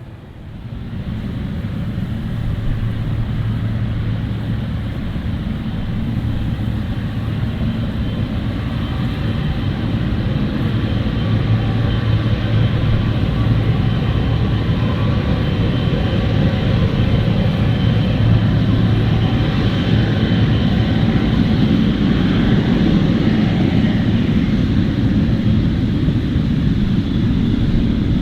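Boeing 777-300ER jet engines at takeoff thrust: a steady, loud jet engine sound with a whining tone over it, swelling quickly in the first two seconds and then slowly growing louder.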